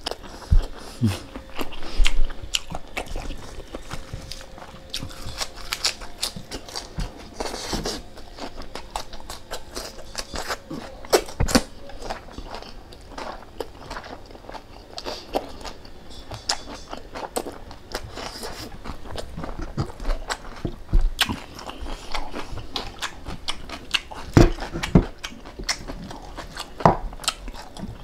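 A person eating close to the microphone, chewing and biting, with many short sharp clicks from the mouth and food.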